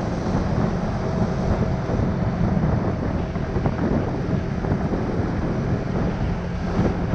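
Heavy wind rumble on the microphone from riding a Honda Winner 150 motorbike, steady throughout, with the engine and road noise running underneath.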